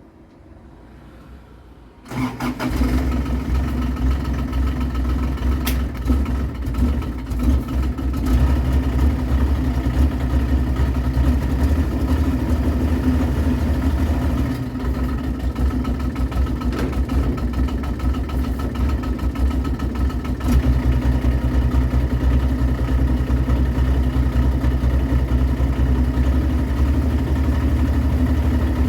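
Diesel engine of a Mule utility vehicle, jump-started from a starting pack, catching about two seconds in and running at a steady idle. It runs a little rough from cold.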